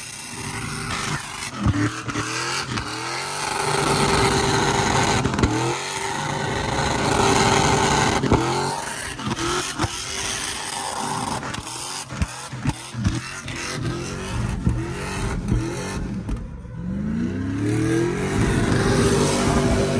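A truck engine revved hard over and over, climbing in pitch with each rev, with sharp pops in between and a longer, slower climb near the end.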